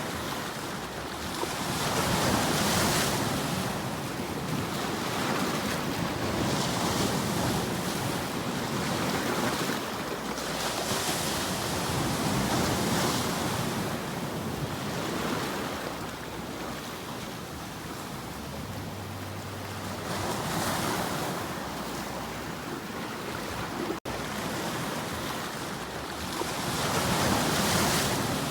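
Ocean surf: waves breaking and washing in, the rushing noise swelling and falling back every few seconds, with a split-second cut about three-quarters of the way through.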